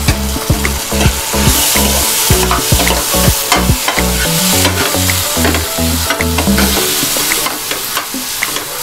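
Tadka of onion, tomato and spices sizzling in hot ghee in a metal pan while a steel spoon stirs it. The spoon scrapes and clicks against the pan again and again.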